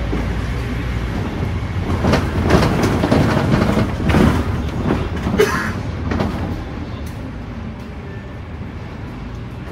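Scania K310UD double-decker bus heard from inside the cabin while under way: a steady low rumble from its five-cylinder diesel engine and the road, with a stretch of louder rattling and clattering from about two to six seconds in before it settles back to the rumble.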